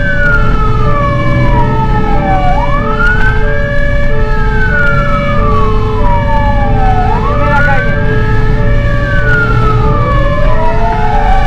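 Fire engine running under emergency sirens: a wailing siren that rises quickly and falls slowly about every four and a half seconds, over a two-tone hi-lo siren switching about twice a second, with the truck's engine rumbling underneath.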